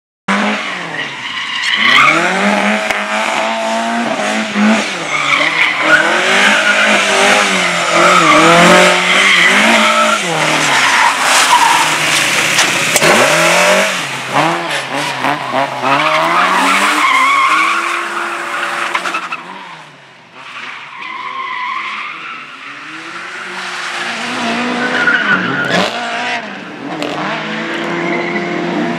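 Car being driven hard through a slalom course, its engine revving up and down repeatedly with the throttle, its tyres squealing and skidding through the turns. The sound drops away about two-thirds of the way through, then an engine builds again towards the end.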